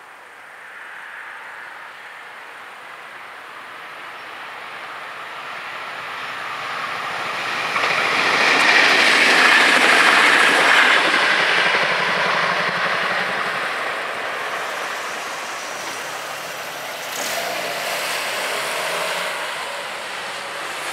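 A DM '90 (Buffel) diesel multiple unit passing over a level crossing. The sound of the train's engine and wheels on the rails builds as it approaches, is loudest about eight to eleven seconds in as it crosses, then fades as it moves away.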